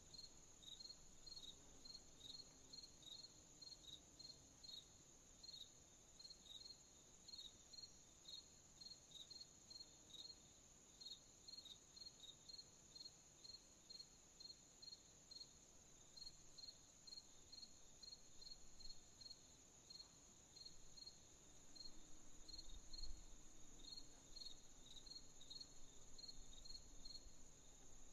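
Faint crickets chirping in short, regular pulses, a few a second, over a steady high insect trill. A faint low rumble swells briefly late on.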